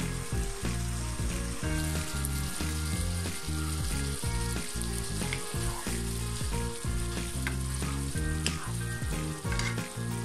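Egg curry gravy bubbling and sizzling in a wok, with a spatula stirring through it and a few sharper scrapes in the second half. Background music with low notes runs underneath.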